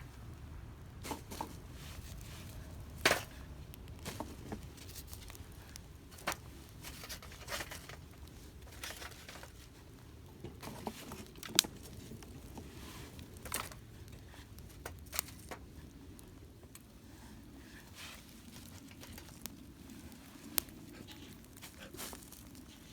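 Wood campfire crackling: irregular sharp clicks and pops scattered throughout, with a few louder snaps.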